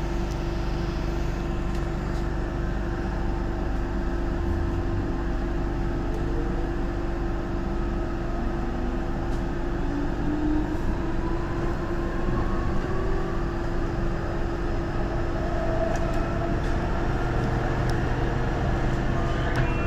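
MTR Disneyland Resort Line M-train running, heard from inside the cab: a steady rumble of wheels on track with a motor whine that rises in pitch as the train pulls away from the station and gathers speed.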